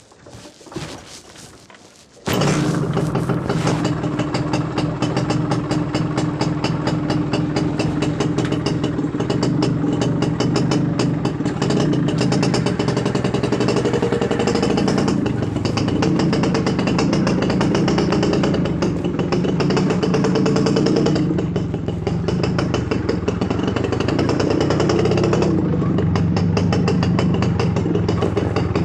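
Suzuki RC100 two-stroke single-cylinder motorcycle engine bursting into loud running about two seconds in, after a few faint knocks, then running on with the revs rising and falling.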